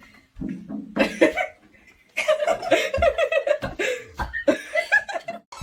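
A person laughing, breaking into a fast run of repeated 'ha' sounds about two seconds in.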